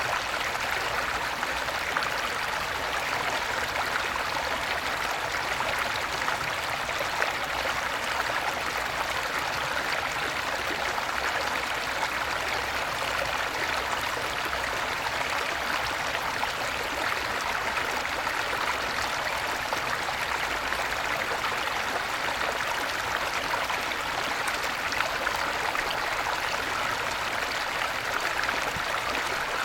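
Small stream babbling steadily after rain, an even rush of water without breaks.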